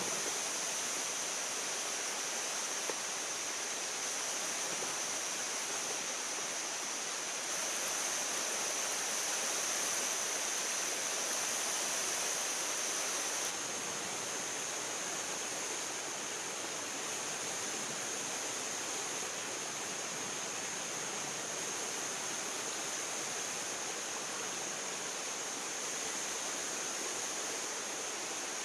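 Steady rushing outdoor ambience: an even wash of water-like noise with a high, steady hiss-like tone running over it.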